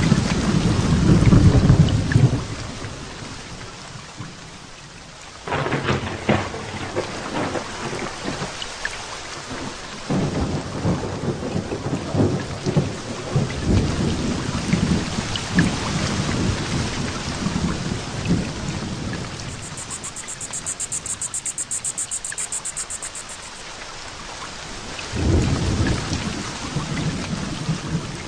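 Heavy rain falling steadily through a thunderstorm. Thunder rumbles at the start, cracks in suddenly about five and ten seconds in, and rumbles again near the end.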